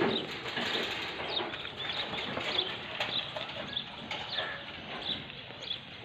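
Small birds chirping, with short high chirps scattered through steady open-air farmyard ambience. A loud animal call, most likely the goat bleating, ends right at the start.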